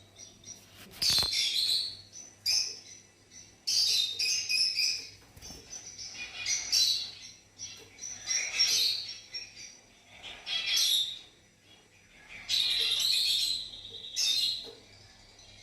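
Fischer's lovebirds chirping in repeated high, shrill bursts, with a longer run of chatter near the end.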